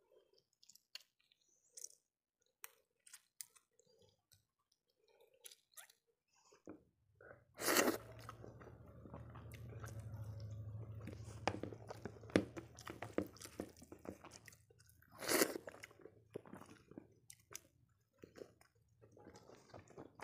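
Close-miked eating: chewing and crunching of fried food held in the fingers, with soft clicks early on giving way to denser chewing, and two loud crunchy bites about eight and fifteen seconds in.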